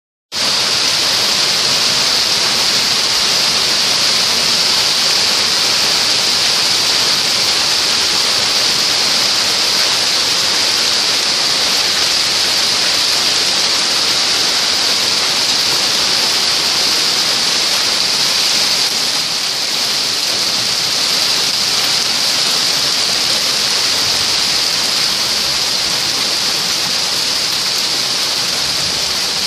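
Heavy downpour of rain mixed with hail, a loud, steady, dense hiss of falling water that eases slightly about two-thirds of the way through.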